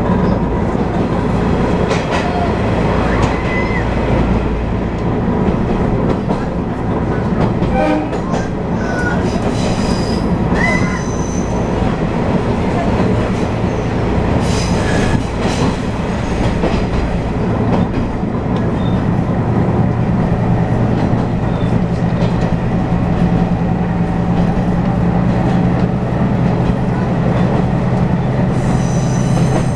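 Diesel railcar running along the line, heard from inside the passenger car: a steady engine drone under the rumble of wheels on the rails. A few short high wheel squeals come in the first half.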